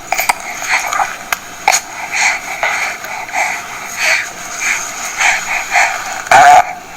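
Recorded baby feeding sounds played back through the Still Moments Nursery Baby Talker sound box's small speaker, thin and without bass, as a string of short sounds every fraction of a second, with a louder short baby noise about six seconds in.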